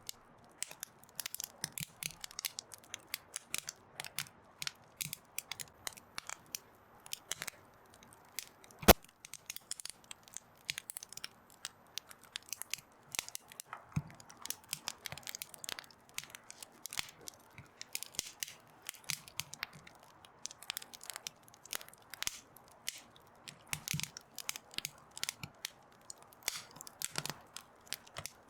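Wood fire crackling, with frequent irregular snaps and pops and one loud pop about nine seconds in.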